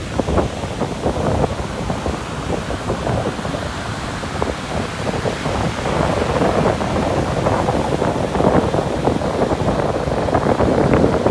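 Sea waves breaking and washing up the shore, a continuous rushing crackle that grows louder about halfway through, with wind buffeting the microphone.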